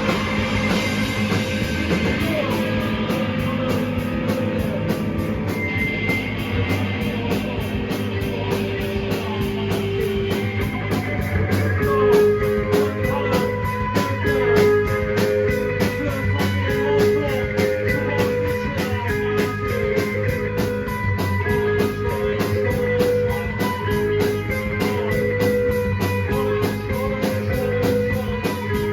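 Live rock band playing: guitar over a driving drum kit beat. About twelve seconds in, a repeating guitar figure comes in.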